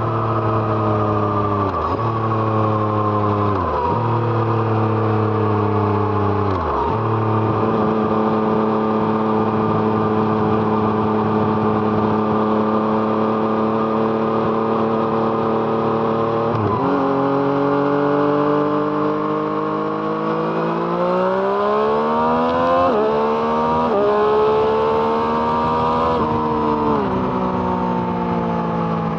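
2017 Yamaha MT-09's 847 cc inline-three engine through an Arrow Thunder aftermarket exhaust, heard from the moving bike. The revs drop in steps with short breaks at each gear change as it slows, hold steady for about ten seconds, then climb sharply through several quick gear changes as it accelerates hard near the end.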